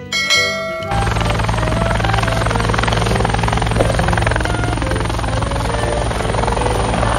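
Helicopter sound: steady rotor chop with engine noise, starting about a second in after a brief snatch of music.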